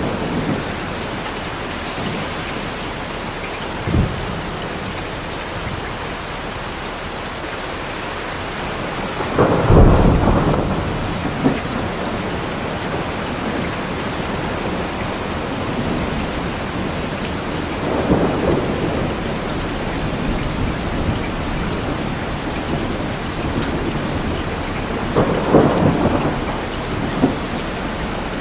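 Steady heavy rain with thunder rumbling at intervals. The longest and loudest roll comes about ten seconds in, with further rumbles later and a short sharp crack near the start.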